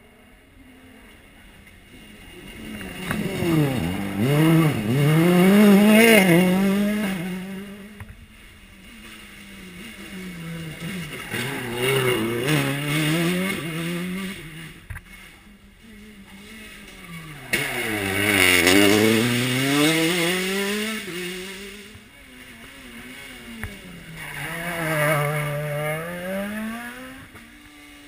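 Rally car engine working through a run of corners: revs climbing hard through the gears, then dropping as it brakes and shifts down, over and over. It is loudest around 6 s and again just before 20 s, and fades between the bursts.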